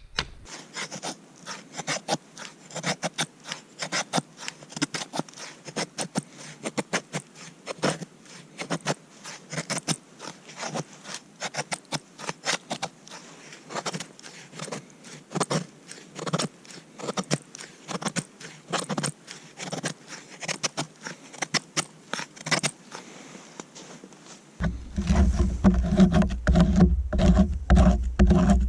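A hand tool scraping wood in quick, irregular strokes with sharp clicks, as when preparing wood for a fire. About four seconds before the end, a louder, lower steady sound takes over.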